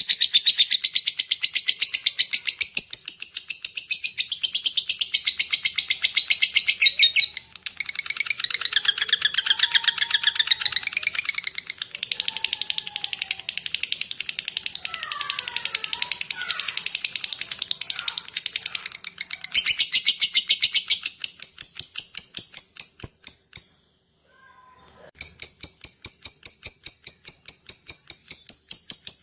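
Lovebird calling in a long, fast chatter of shrill ticks, the 'ngekek panjang' and 'ngetik' call that keepers use to draw other lovebirds. It breaks off briefly near the end, then resumes.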